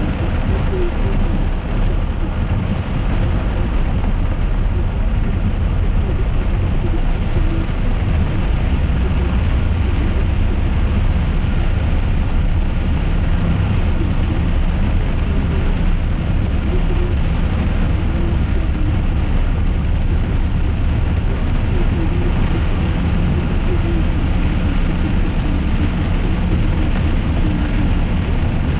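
Steady cabin noise of a car driving in rain: engine and tyre rumble on the wet road, with rain on the bodywork.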